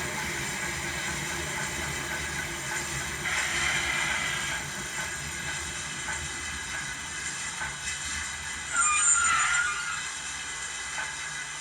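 ESU LokSound v5 sound decoder in a model Coronation Class steam locomotive playing steam running sounds with hiss through its small speaker as the loco runs in reverse. A louder, short high-pitched sound comes about nine seconds in.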